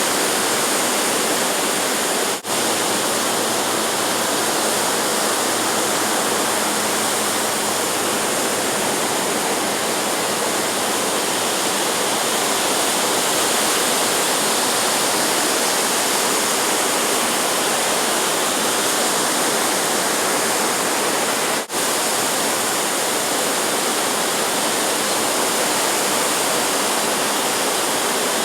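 Steady, even rushing of ocean surf, with two momentary dropouts, one about two seconds in and one about twenty-two seconds in.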